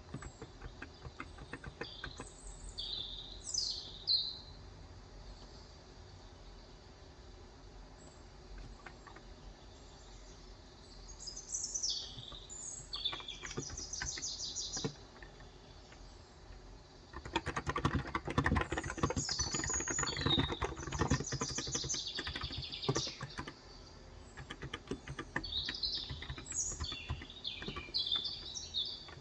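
Typing on a Cox Endeavour electro-capacitive 35g tenkeyless keyboard: a few scattered keystrokes, then a dense, fast run of typing a little past halfway. Birds chirp in several short bursts of high calls over the typing.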